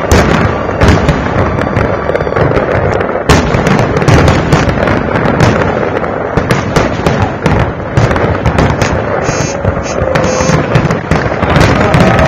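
A dense fireworks barrage: shell bursts booming one after another with crackling in between, with no break.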